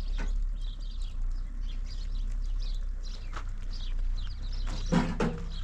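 Small birds chirping over and over above a steady low hum, with a brief louder animal call about five seconds in.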